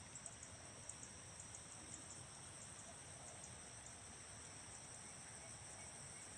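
Faint rice-paddy chorus of frogs and insects: a steady, high, shrill trill with rapid fine clicks in it, cutting off suddenly at the end.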